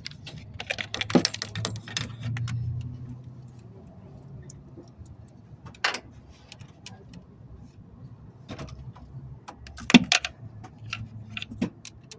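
Irregular sharp metallic clinks and knocks, like tools or metal parts being handled, over a low hum. The loudest knocks come about a second in, about six seconds in and about ten seconds in.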